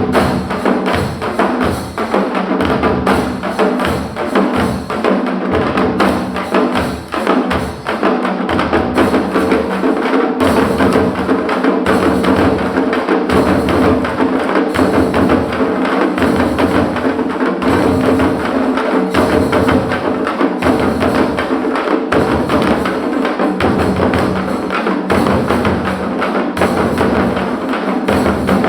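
Parai frame drums beaten with sticks in a dense, fast rhythm, with deep beats landing at a steady pulse underneath.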